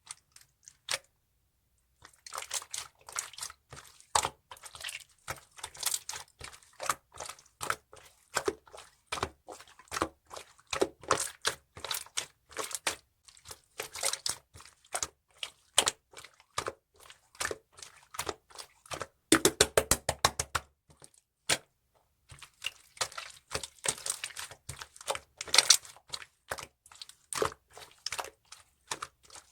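Clear slime being squished and pressed, a fast, dense run of sticky clicks and small pops that pauses briefly about two-thirds of the way through.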